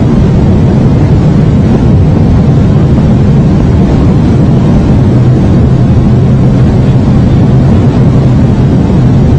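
High-speed bullet train running at speed: a loud, steady rumble with a low hum and no let-up.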